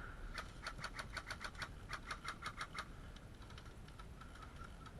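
A rapid run of faint, sharp airsoft gun shots, about six a second for some two and a half seconds, then they stop.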